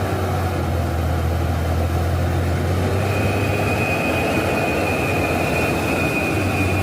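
Hino 500 truck's diesel engine running steadily through a loud aftermarket 'cung' exhaust, a deep even drone. A thin high whistle joins about three seconds in and holds.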